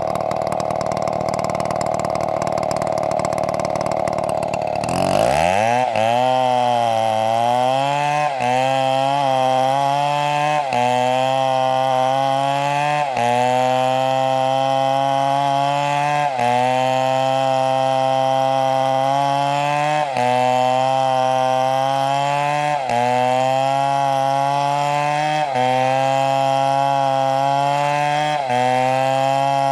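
STIHL chainsaw running at high revs, then dropping sharply in pitch about five seconds in as it bites into the wood. It then labours through the cut, its engine note sagging and recovering about every two and a half seconds.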